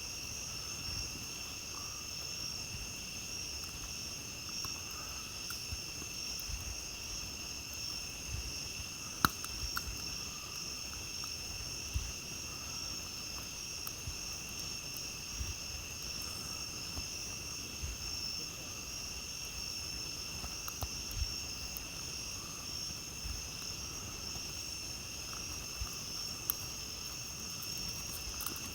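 A steady chorus of night insects, several unbroken high-pitched trills at once, over a campfire crackling with scattered sharp pops. The loudest pop comes about nine seconds in.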